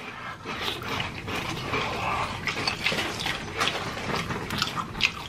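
Close-miked chewing of crispy fried chicken: a dense, irregular run of wet crunches and mouth clicks.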